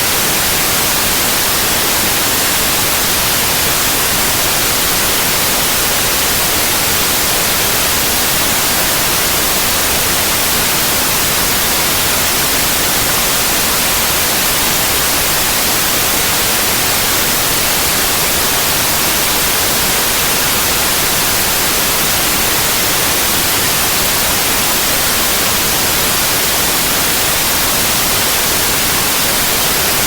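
Synthesised white noise: a steady, even hiss with its energy spread across the whole range and strongest in the highs, unchanging throughout.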